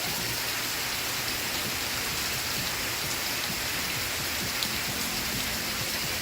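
Steady rain falling, an even hiss with occasional single drops ticking through it.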